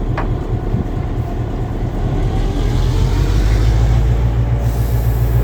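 A vehicle running with a deep, steady rumble that grows louder about three seconds in.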